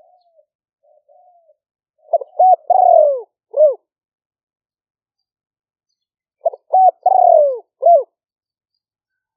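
Spotted dove cooing in two phrases about four seconds apart, each a few quick short notes, a longer falling coo and a short closing note, with faint soft notes in the first second or so. This is the 'liu fueang' song style used for decoy-calling wild doves.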